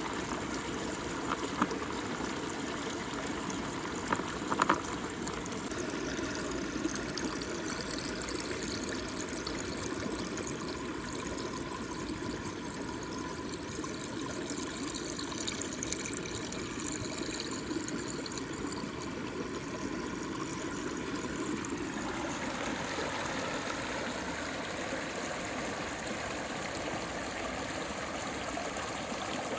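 Muddy water swirling in a whirlpool and draining down a hole, a steady flowing and trickling rush, with a few sharp clicks in the first five seconds. The sound of the flow changes about three-quarters of the way through.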